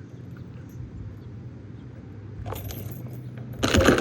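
Metal swing-set chains jangling and clinking as the swing moves, with a short rattle about two and a half seconds in and a louder clatter near the end.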